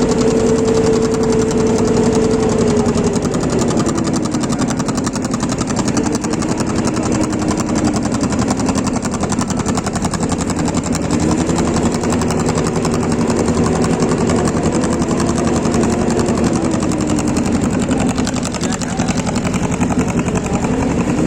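Motor boat's engine running steadily, its speed easing off about three seconds in, picking up again around the middle and easing off once more near the end.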